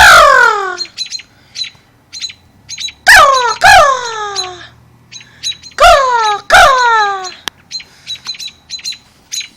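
Birds calling: five loud squawks that fall in pitch, one at the start and then two quick pairs, with short high chirps between them.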